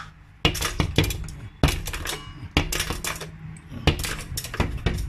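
An irregular run of sharp knocks and clinks, like hard objects clattering together, starting about half a second in.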